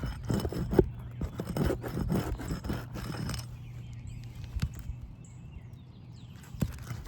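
Roof snake scraping and clicking under asphalt composition shingles as roofing nails are pried out: a busy run of short scrapes and knocks over the first few seconds, then a couple of lone clicks.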